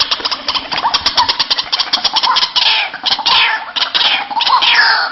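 White-breasted waterhen calling, as played for a bird lure: a fast run of harsh, clicking notes, then from about halfway a series of calls that fall in pitch.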